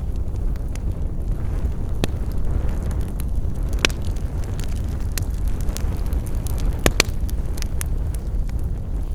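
Wood campfire crackling: scattered sharp pops and snaps over a steady low rumble, with the loudest pops about four and seven seconds in.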